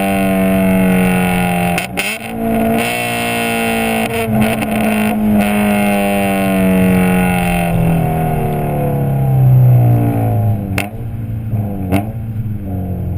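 Honda B16A2 four-cylinder engine through a Skunk2 header, decat pipe and Megapower R exhaust, running at high revs with a brief dip in pitch about two seconds in, then the revs fall steadily over several seconds as the car slows. Two sharp clicks come near the end.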